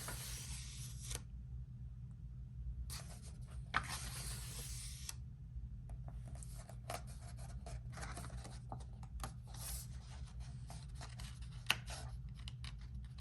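Pages of a paperback coloring book being turned by hand: two soft paper swishes of about a second each, then quicker rustling and small crinkles as the pages are handled, over a steady low hum.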